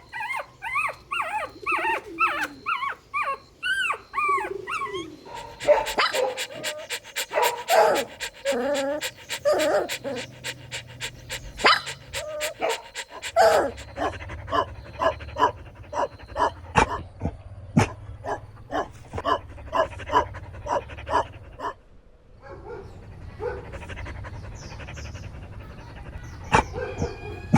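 Puppies whimpering in short rising-and-falling cries for the first few seconds, then yipping and panting in quick, short sounds.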